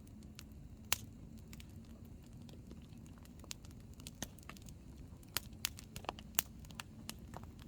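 Hardwood campfire burning, the firewood crackling over a low rumble of flame. Sharp pops are scattered through, with a loud one about a second in and a run of pops in the last third.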